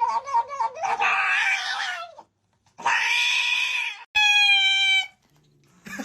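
Cat yowling: a wavering cry, then three drawn-out cries with short silences between them, the last one cleaner and steady in pitch.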